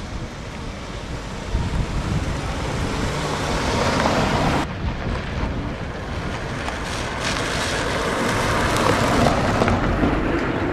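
Rushing outdoor noise of wind on the microphone and road vehicles, swelling twice, about four and nine seconds in.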